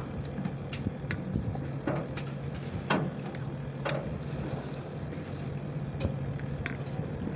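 A fishing boat's engine humming steadily, mixed with wind, with scattered light clicks and knocks.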